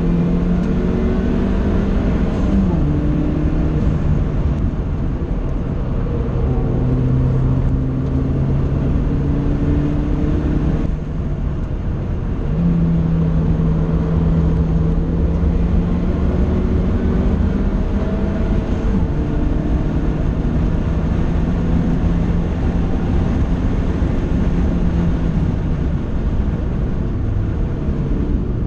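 Vauxhall VX220 Turbo's turbocharged four-cylinder engine running hard on track, heard from inside the cabin. The engine note climbs slowly and steps in pitch several times as gears change, easing off briefly about eleven seconds in.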